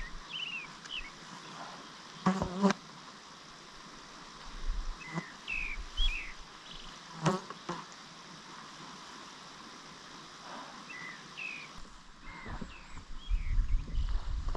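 Small bird chirping in short, quick downward-sliding calls, in three bursts, with a few sharp knocks in between. Wind buffets the microphone near the end.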